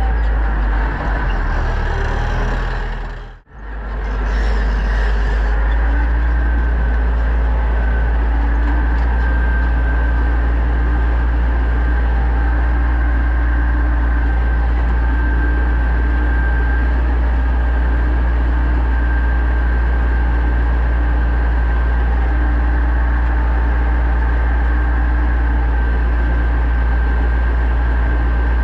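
Pronar 1025A tractor's diesel engine running steadily under ploughing load, a deep even drone. The sound drops out sharply for a moment about three seconds in, then carries on unchanged.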